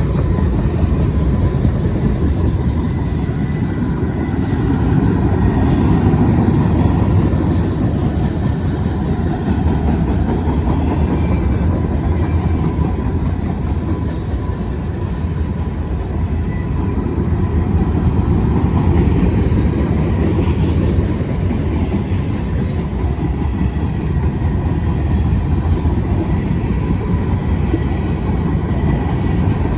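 Train rolling past with a steady, loud rumble of wheels on the rails.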